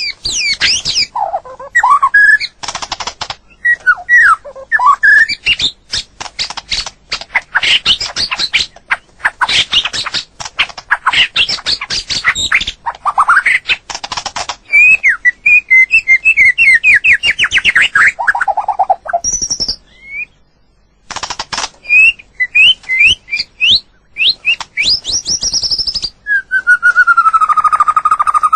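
White-rumped shama singing: a fast, varied run of clear whistles, rising and falling sweeps and sharp clicking notes. There is a short pause about two-thirds of the way through, and a long falling whistle near the end.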